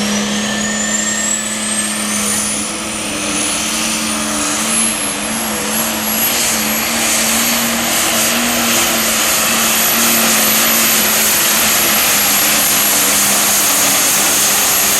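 Super stock pulling tractor's turbocharged engine running at full power under load. Its turbo whine rises in pitch over the first few seconds, then holds a steady high scream over the engine's constant note.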